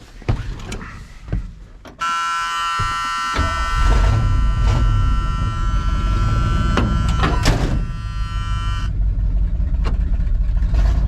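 Knocks and clicks as someone climbs into the cab of a 1979 Ford F-150, then a steady dashboard warning buzzer comes on about two seconds in. The truck's V8 is cranked briefly and catches about a second later, then keeps running. The buzzer cuts off suddenly near the end.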